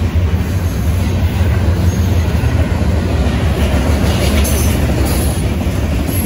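Freight train's covered hopper cars rolling past at close range: a loud, steady rumble of steel wheels on rail, with brief higher metallic sounds about four to five seconds in.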